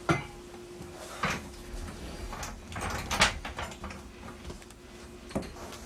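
A door opening and shutting, heard as a handful of separate knocks and clunks, the loudest a little past three seconds in, over a faint steady hum.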